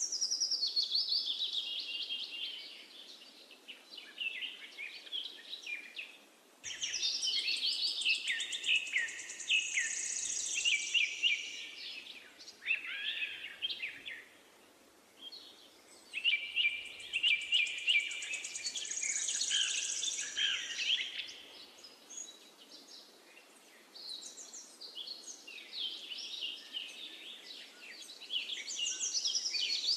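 Birds singing: spells of rapid chirping and trilling song a few seconds long, with short pauses between them.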